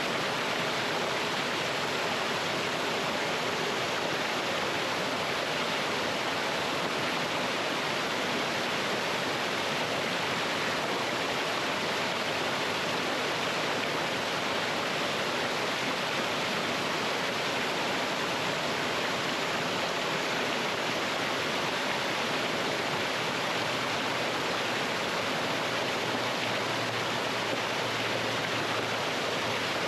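Mountain stream pouring over rocks in a small waterfall: a steady, even rush of water.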